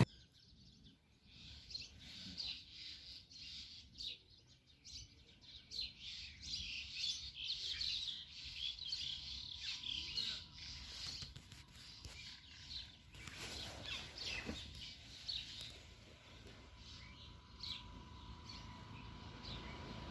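Birds chirping faintly, many short high calls overlapping.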